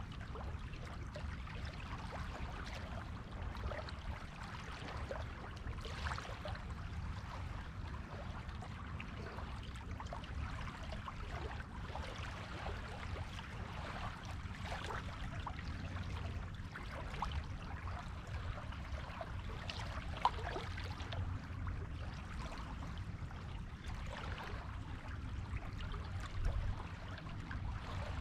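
Gentle surf on a beach: a steady wash of water with small fizzing crackles over a low rumble, with no distinct breaking waves.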